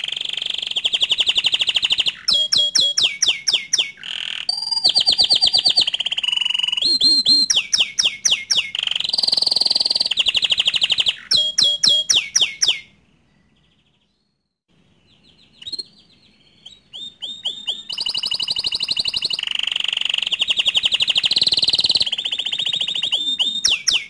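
Domestic canary singing: long runs of fast, rapidly repeated whistled notes and rolling trills. The song breaks off for about two seconds just past the middle, then starts again.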